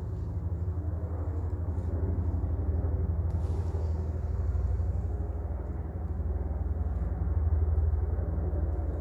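2008 Subaru Legacy 2.5i's flat-four engine idling steadily, a low even rumble heard from underneath the car.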